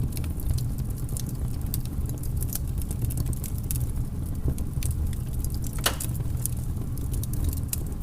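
Burning firewood crackling and popping: many small, irregular snaps, with one louder pop about six seconds in, over a steady low rumble.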